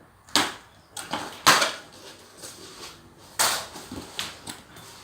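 Packaging being handled and opened: a run of sharp crinkles and rustles from the wrapping, about seven quick handling noises spread over the few seconds.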